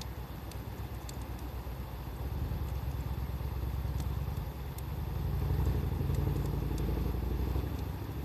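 Low engine rumble of a motor vehicle, growing louder about halfway through, over a few sharp crackles from a wood campfire.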